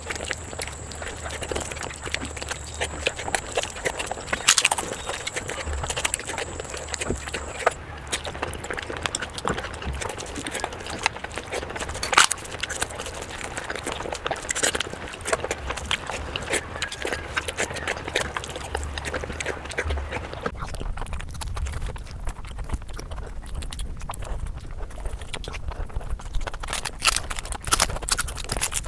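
Close-miked eating sounds of a person eating mutton curry: wet chewing and lip smacking made up of many small clicks, with a louder sharp click about four seconds in and another near the middle.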